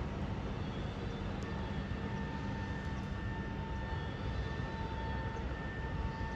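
Steady low engine drone of a GV-E197 series diesel-electric train, with a faint steady whine over it that comes in about a second and a half in.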